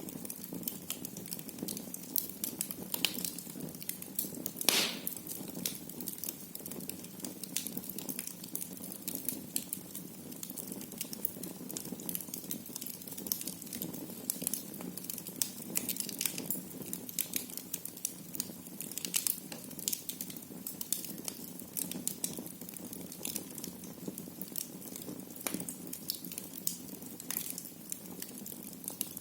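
Wood fire burning in a fireplace, crackling with irregular sharp pops over a steady low rush of flame. About five seconds in comes one louder pop with a short hiss.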